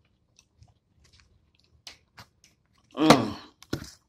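A man chewing French fries dipped in hot sauce: soft, scattered mouth clicks and wet chewing sounds. About three seconds in comes a short throaty 'mm' from him, the loudest sound, then a quick smack, as the sauce's heat sets in.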